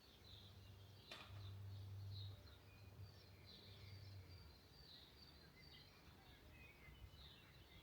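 Near silence outdoors: faint birds chirping on and off over a low hum, with a single sharp click about a second in.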